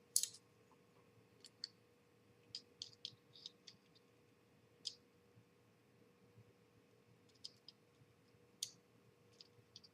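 Scattered light clicks and taps of small screws and model parts being handled and set down, irregular, with a small cluster of them about a third of the way through. A faint steady hum sits underneath.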